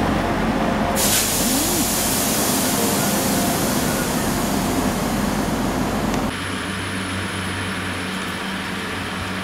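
Diesel multiple-unit trains running at a platform, a Class 175 among them pulling away, with a steady low engine hum. A loud hiss starts suddenly about a second in and cuts off abruptly about six seconds in.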